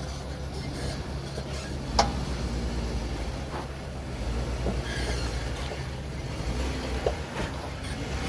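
Jeep engine running at low revs while crawling over rock, a steady low rumble with a sharp knock about two seconds in and a lighter one near the end.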